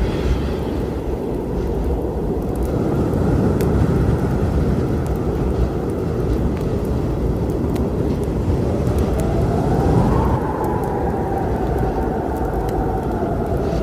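Storm wind with a deep, steady rumble and a howl that rises and falls in pitch from about nine seconds in. A few faint crackles of a wood fire show through.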